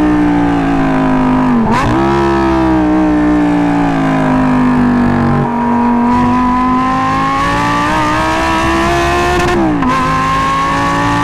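Audi R8's 5.2-litre V10 running loud through a custom valved exhaust, its pitch sinking and then climbing steadily, broken twice by a quick dip and jump in revs at gear changes, about two seconds in and near the end.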